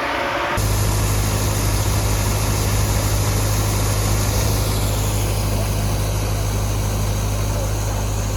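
A steady-running large farm diesel engine with a deep, even hum. The first moment is a different whining machine tone that cuts off abruptly under a second in.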